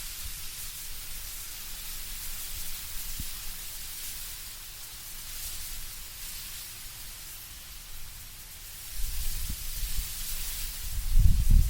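Wind moving through autumn trees, the leaves rustling in soft swells. A low wind rumble builds from about nine seconds in and is loudest near the end.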